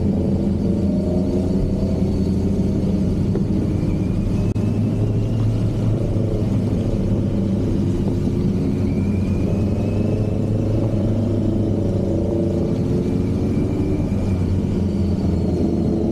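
Kawasaki Z900 SE's inline-four engine running steadily under way, its pitch drifting slightly up and down as the revs change.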